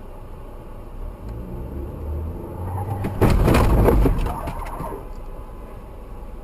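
Car noise on a dashcam, an engine building up, then a loud crash about three seconds in: a sudden burst of crunching impacts lasting about a second that fades away, typical of a road collision.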